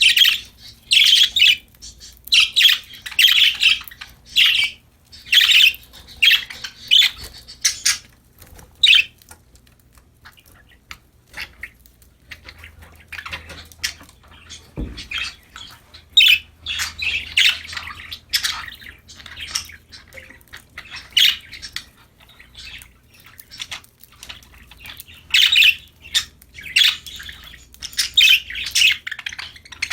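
Budgerigars (pet parakeets) chirping and chattering in bursts of short, high, scratchy calls, with a lull in the middle and one brief thump about halfway through.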